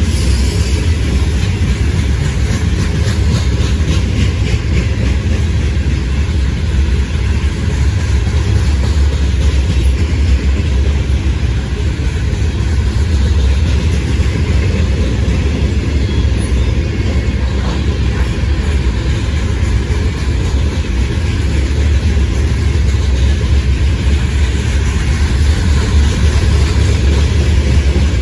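Train rolling past, its railcars making a steady low rumble.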